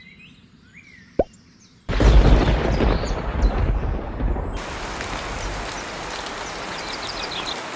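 A sudden rumbling thunderclap about two seconds in, easing into steady heavy rain. Two short pops come before it.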